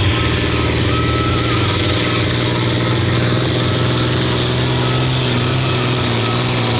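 Hot stock diesel pulling tractor running flat out under load as it drags the weight-transfer sled down the track, its engine note held steady.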